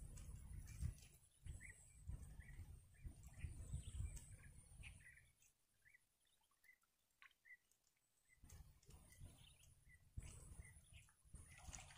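Faint bird chirps, short and repeated about twice a second, over low wind rumble on the microphone and a faint steady high whine.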